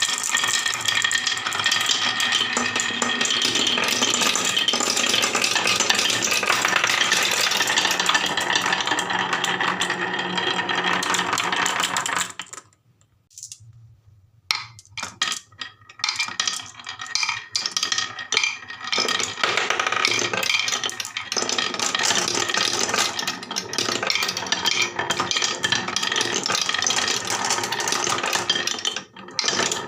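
Many marbles rolling and clattering down the slopes and tracks of a HABA marble run, a dense continuous rattle of small hard clicks. About twelve seconds in it stops almost completely for a couple of seconds, then returns as scattered clicks before thickening into a steady clatter again.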